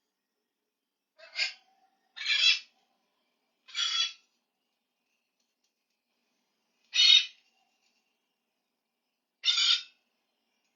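A parrot giving five short, harsh screeching calls, each about half a second long and spaced irregularly a second or more apart.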